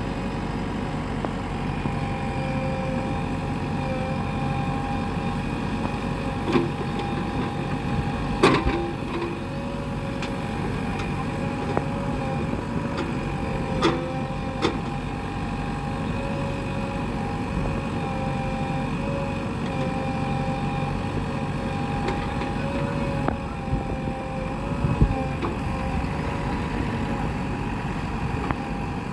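A JCB digger's diesel engine running steadily under load, with a held whine over it. A few sharp knocks of material and the bucket come through, one of them about eight seconds in and another near the end.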